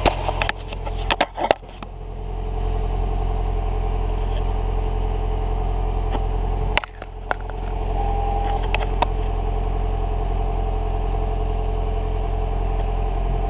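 A 2015 Lexus ES 300h's 2.5-litre four-cylinder engine running steadily at idle. There are a few sharp clicks in the first two seconds, and a brief drop in level about seven seconds in before it settles back.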